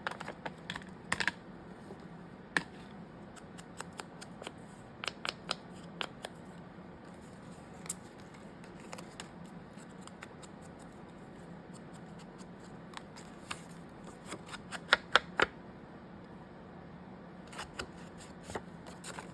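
Scattered sharp clicks and taps of small craft tools and paper being handled on a desk, coming in short clusters, over a faint steady hum.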